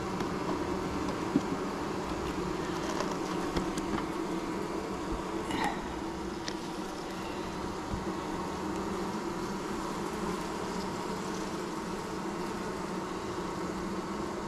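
Honeybees buzzing steadily around an open hive, a continuous low hum.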